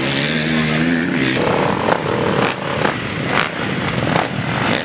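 Motocross bike engines running on the track: a steady engine note for about the first second and a half, then rougher, with several short bursts of throttle.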